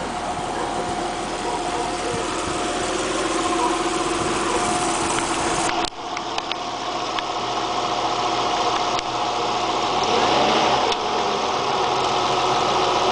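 Nissan 300ZX Twin Turbo's 3.0-litre twin-turbo V6 idling steadily, with a brief break about six seconds in.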